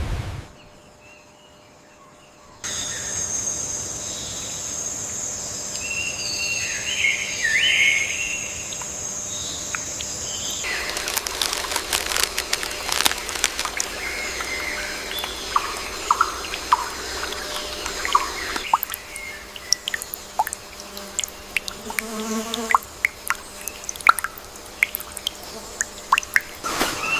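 Rainforest ambience: a steady high insect shrill, starting a couple of seconds in, with a few bird chirps, then from about ten seconds in a scatter of sharp clicks and ticks.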